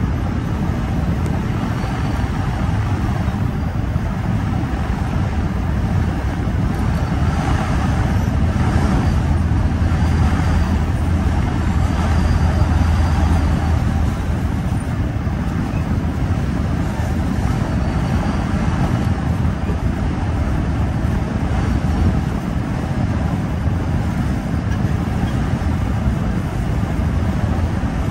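Metra commuter train rolling along the track, heard from inside the leading car: a steady rush of wheels on rails with a low rumble that swells for several seconds midway.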